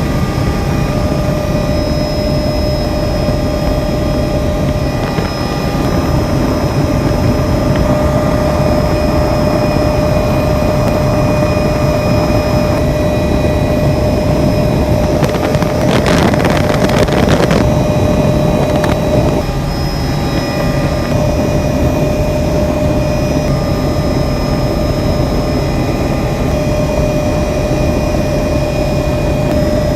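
Helicopter in flight: a steady drone of engine and rotor with a constant high whine. Midway through there is a brief, louder rush of noise lasting about three seconds.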